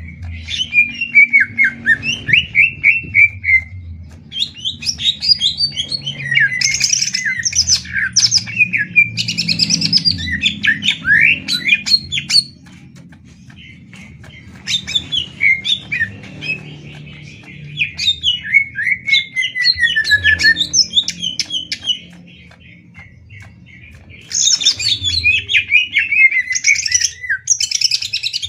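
Cucak ijo (green leafbirds) singing against each other: four long phrases of fast, varied chattering with sliding whistles, broken by two short pauses.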